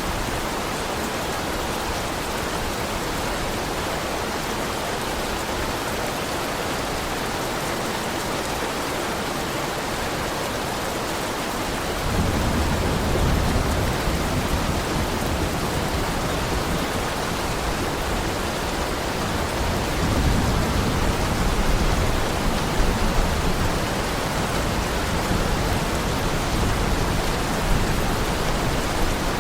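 Heavy rain falling steadily. About halfway through, a deep rumble of thunder comes in and lingers, swelling again a little later.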